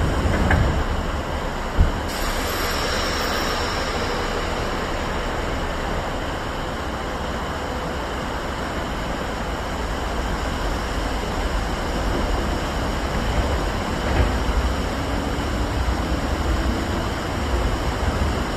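An electric train, the Double Decker Express, runs at the station with a steady rumble and a sharp click about two seconds in. Near the end a faint rising motor whine comes in as it gathers speed.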